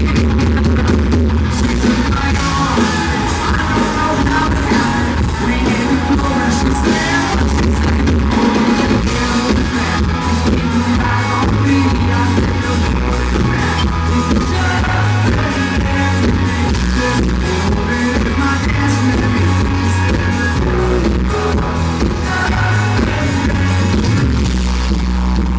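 Live country band playing loud amplified music with drums, bass and guitar and a singer, recorded from the audience with a distorted, boomy low end.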